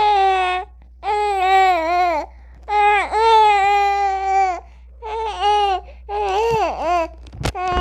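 Newborn baby crying in a series of about five high-pitched wails with short breaths between them, and a brief click near the end.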